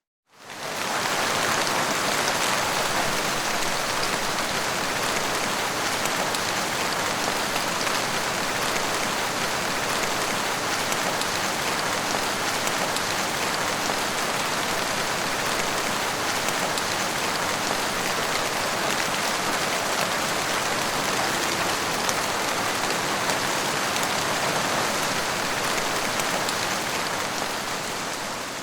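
Steady, heavy rain falling, an even dense patter. It fades up from silence just after the start and fades out near the end.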